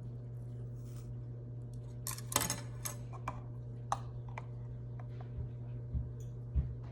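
Cutlery and dishes clinking: a cluster of ringing metallic clinks a couple of seconds in, then a few single lighter clicks and two soft thumps near the end, over a steady low hum.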